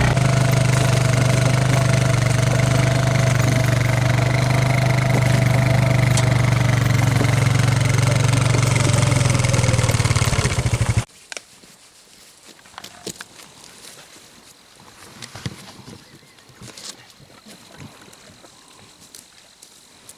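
Four-wheeler engine running steadily while towing a loaded trailer, with a steady whine above the engine note. About eleven seconds in it cuts off abruptly, leaving quiet outdoor background with faint clicks and rustles.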